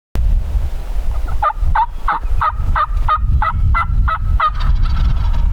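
Turkey yelping: a run of about ten evenly paced yelps, about three a second, lasting some three seconds. Low wind rumble on the microphone sits under the yelps.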